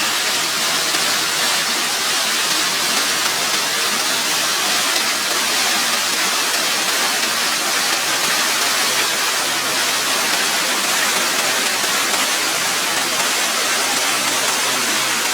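Steady, loud rushing of water, an even noise with no breaks.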